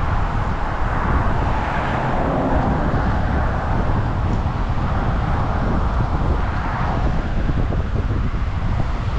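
Strong wind buffeting the microphone over the steady rush of rough surf, the rush swelling and easing.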